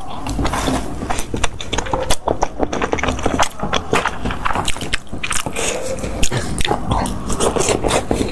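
Close-miked eating: biting and chewing fish tofu, wet mouth sounds with many irregular sharp clicks.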